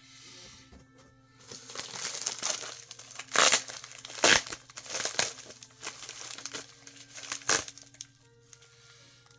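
Crinkling and crackling of plastic-bagged comic books being handled and shuffled, with a few sharper, louder crackles.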